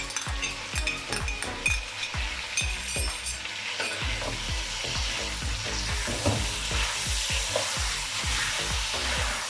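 Chicken pieces and ginger-garlic paste sizzling in hot oil in a karahi, with a spoon and a silicone spatula clicking and scraping against the pan through the first few seconds; from about four seconds in the sizzle runs steadier.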